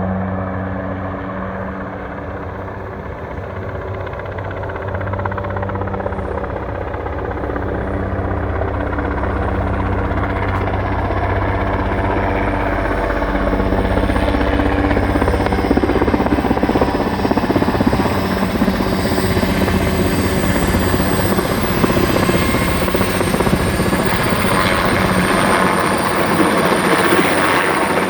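Erickson S-64 Aircrane heavy-lift helicopter: steady rotor and engine noise that grows louder through the first half, with a high turbine whine coming in and strengthening.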